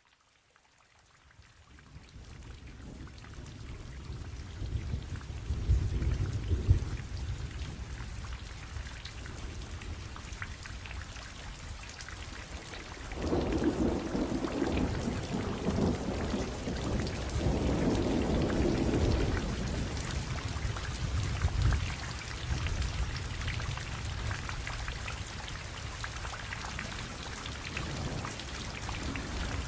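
Rainstorm: steady rain with rolling thunder, fading in over the first couple of seconds. Thunder swells about five to seven seconds in, rumbles longer from about thirteen to twenty seconds in, and comes once more a little later.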